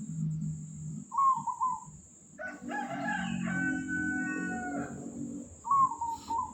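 Zebra dove (perkutut) cooing in short, quivering phrases, once about a second in and again near the end; the owner feels its voice sounds different after being given pandan leaves. In between, another bird gives a longer call.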